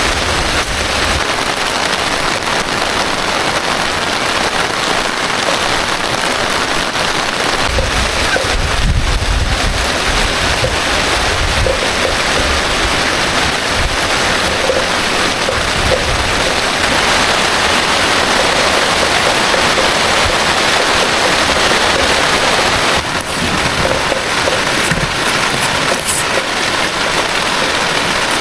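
Heavy rain pouring steadily in a dense, even hiss, with a low rumble swelling about eight seconds in.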